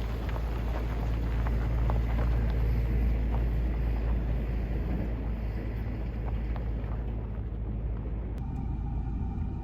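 Steady low rumble inside a moving car: engine and road noise of a small 1.4-litre car heard from the cabin.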